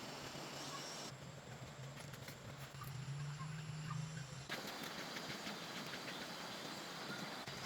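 Faint, low, steady hum of a distant engine for about three seconds, over outdoor background noise.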